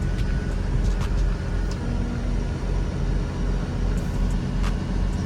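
Dump truck's diesel engine running steadily, with a few light clicks now and then.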